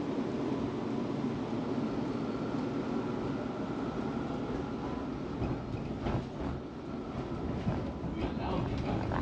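Tram running along its track, heard from inside the car: a steady rumble of wheels on the rails, with a few knocks and clacks over the track in the second half.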